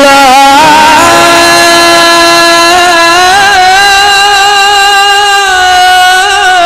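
A male Quran reciter's voice holding one long, ornamented note in the melodic mujawwad style. The note steps up in pitch about three seconds in and wavers briefly near the end.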